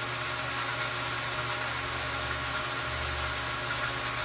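Metal lathe running steadily during a facing cut on a piston, a steady motor hum made of several even tones. A low rumble swells up about half a second in and fades out after about three and a half seconds.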